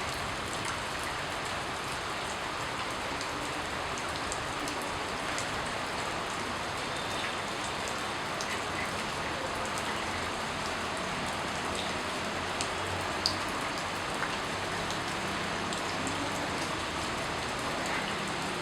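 Steady, even rain, with scattered sharp ticks of single drops on top.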